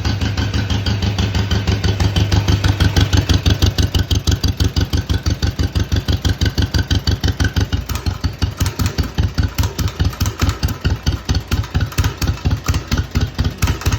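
1952 John Deere MT's two-cylinder engine running with its characteristic 'Johnny Popper' exhaust beat. About halfway through it is throttled back, and the fast run gives way to a slow idle of distinct, evenly spaced pops.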